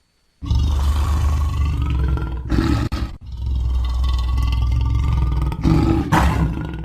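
Lion roaring, starting suddenly about half a second in. It breaks off briefly about three seconds in and then roars again.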